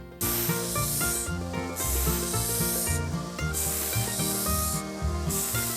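Steel wrench parts being ground on a 1x30 belt sander with a coarse 80-grit belt: a loud grinding hiss that breaks off briefly three times, about every second and a half.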